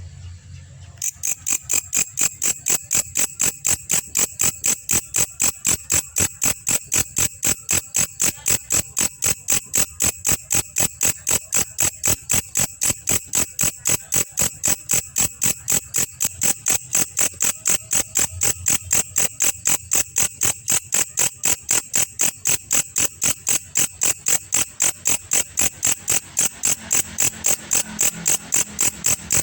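Belalang kecek, a katydid, calling in a steady train of sharp, high-pitched chirps, about three to four a second, that start about a second in.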